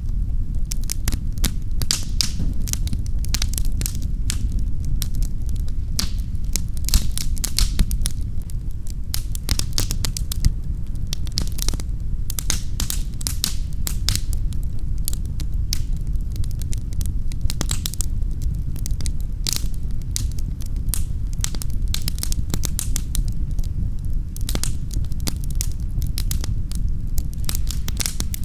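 Wood fire crackling in a fireplace: frequent sharp irregular pops and snaps over a steady low rumble of the flames.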